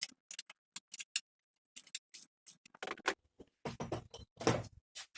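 Irregular sharp clicks and taps with short gaps between them, and a few heavier knocks near the end.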